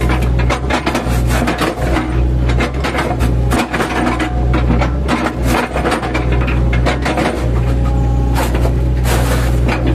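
Mini excavator's diesel engine running steadily under load while its bucket chops into a felled oil palm trunk, with repeated cracking and crunching of the fibrous wood that is heaviest near the start and end.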